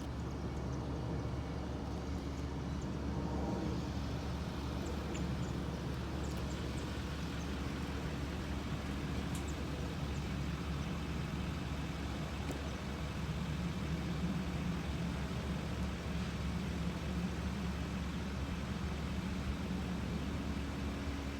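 Steady low rumble of vehicle engines running, with no sharp events; the hum grows somewhat stronger in the second half.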